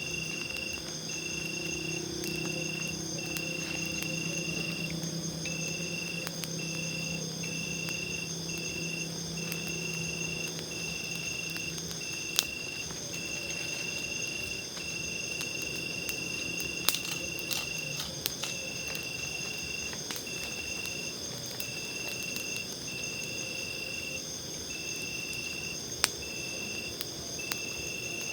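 Night forest insects chirping steadily, several at different high pitches, one in uneven pulsed trills. A few sharp pops from a burning campfire come through.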